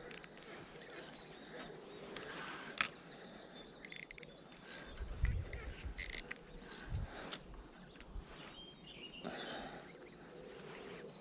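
Birds chirping faintly over quiet outdoor background noise. A few short rasping bursts come about four and six seconds in, with low knocks from handling around them.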